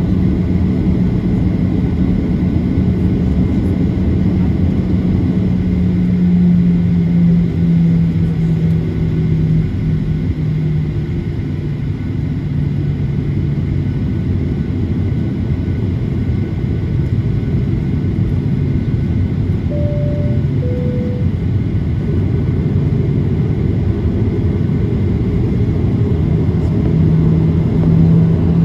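Steady low rumble and hum inside the cabin of a Boeing 737-800 on the ground, with a low drone that wavers slightly in pitch. About 20 seconds in, the cabin chime sounds once as a falling two-note tone.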